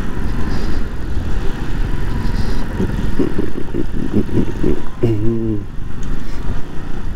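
Bajaj Pulsar NS200 single-cylinder motorcycle engine running under way on a rough gravel track. A short pitched tone is heard about five seconds in.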